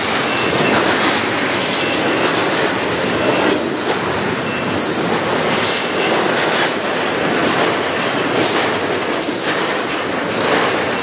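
Double-stack container cars of a freight train rolling past close by: a steady wheel-on-rail rumble and clatter, with a few brief thin squeals from the wheels.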